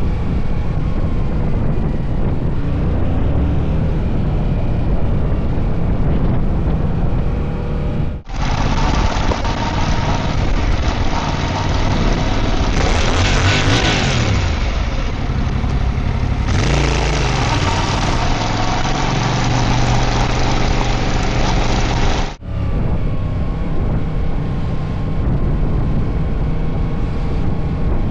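Yamaha MT-07 parallel-twin motorcycle engine running under way, mixed with steady wind and road noise; around the middle the engine pitch climbs and drops as it accelerates and shifts. The sound cuts off for a moment twice.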